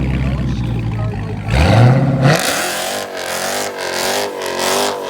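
Car engine rumbling low, then revving up sharply about a second and a half in. After that the tyres spin and squeal in a burnout, the squeal wavering and pulsing.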